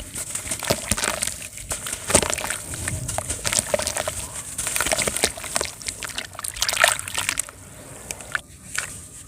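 Pressed sand shapes crumbling apart in water: irregular sloshing and splashing with many small crackling ticks, easing off briefly near the end.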